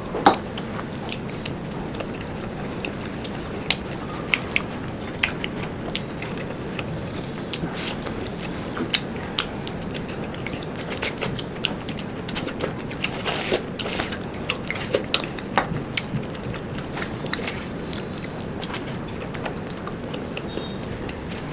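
Close-miked eating: chewing and biting with irregular wet mouth clicks and smacks, over a steady background hiss.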